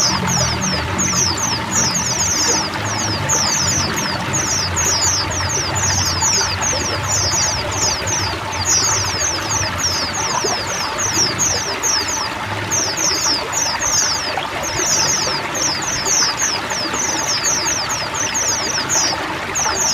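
A flock of white-eyes (pleci) calling and singing together in rapid, overlapping, high-pitched chirps, each note falling in pitch, over the steady rush of trickling water.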